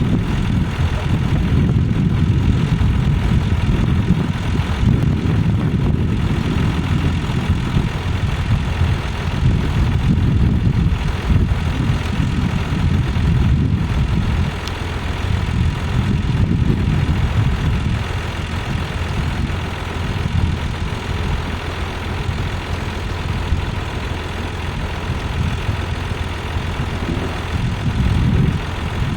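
Tractor engine running steadily at low revs, a deep continuous drone, with a few faint knocks over it.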